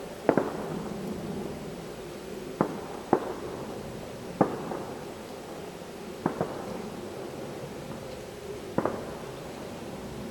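Fireworks shells bursting: about seven dull booms at irregular intervals, some in quick pairs, each trailing off in a low rumbling echo.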